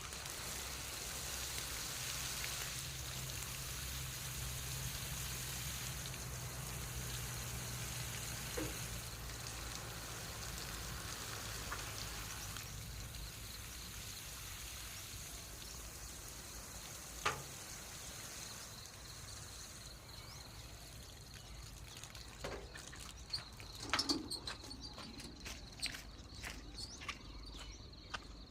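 Steady hiss of water spraying onto eggplant plants, with a high, even insect drone and a few scattered clicks and knocks near the end.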